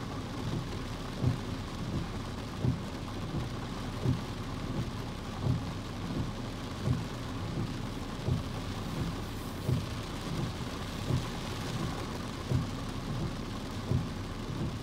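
Steady rain, with a low thump repeating evenly about every one and a half seconds.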